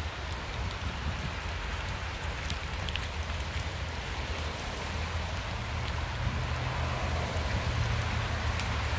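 Steady hiss of light rain falling on wet ground and leaves, with a few scattered drop ticks, under a low rumble that grows louder about six seconds in.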